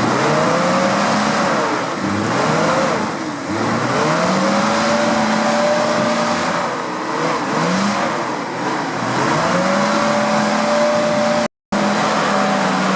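Off-road vehicle's engine revving hard again and again, each rev rising in pitch, holding for a second or two, then falling away. The sound cuts out for an instant near the end.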